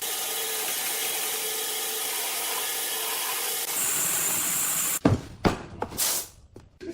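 A power tool running steadily on wood, its sound turning brighter and hissier about four seconds in, then stopping abruptly about a second later. A few sharp wooden knocks follow.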